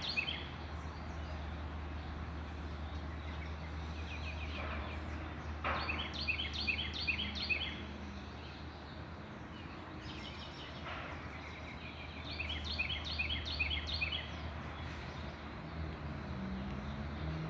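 A songbird singing, repeating a phrase of rapid chirps lasting about two seconds several times over, with fainter calls between. A steady low rumble of background noise runs underneath.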